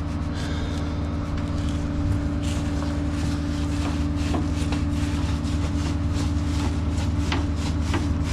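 Flatbed tow truck's engine running steadily at idle, with scattered light clicks and knocks over it.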